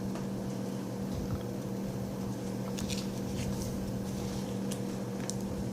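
Steady low electrical hum in a small room, with a few faint clicks and smacks of someone chewing a hard sour gummy candy.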